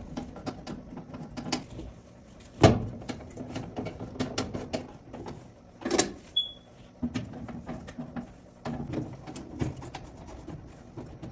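Irregular clicks, taps and knocks of a nut driver and sheet-metal parts as a new furnace inducer motor is fitted and screwed down. There are two louder knocks, about two and a half and six seconds in, and a brief squeak just after the second.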